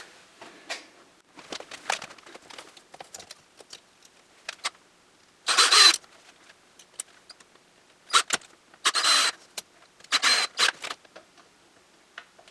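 Power drill driving a flathead screw into a pilot hole in four short trigger bursts, about half a second each, the motor whining in each one. Light handling clicks and rustles come before the first burst.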